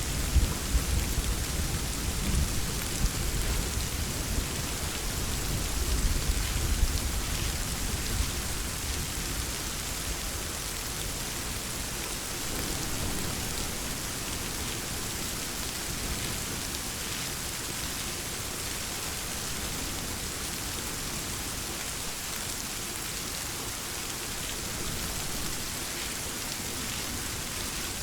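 Steady rain falling, with a low rumble of thunder through the first several seconds that dies away, leaving the even hiss of the rain.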